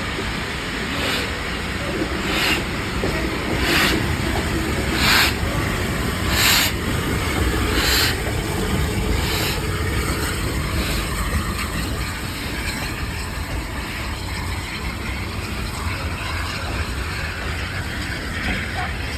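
Steam locomotive 34067 Tangmere, a Bulleid Battle of Britain class Pacific, chuffing slowly, with exhaust beats about every second and a half. The beats grow louder, then fade out about ten seconds in, over a steady low rumble of the train.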